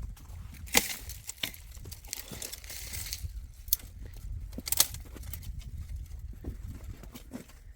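Irregular knocks, clicks and scrapes from handling or working with objects, over a low steady rumble.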